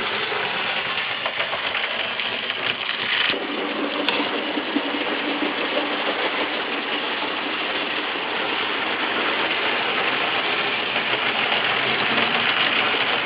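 A 3-rail LMS model locomotive running steadily around the layout: a continuous electric-motor hum and the rattle of wheels on the three-rail track, with a faint steady tone coming in a few seconds in.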